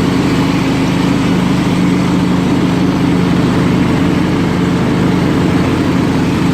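Scotts lawn tractor's 16-horsepower Kohler Command engine running steadily with the mower blades engaged, holding an even speed under the deck's load without surging or bogging down: a sign that the carburetor cleaning cured the fault.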